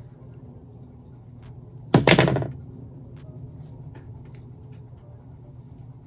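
Scissors snipping the ends of a human-hair wig: a few faint short clicks, with one loud brief rush of noise about two seconds in.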